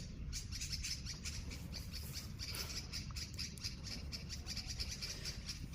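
Small songbirds, yellow-vented bulbuls, giving a steady stream of short, rapid harsh call notes: alarm calls at a cat close by.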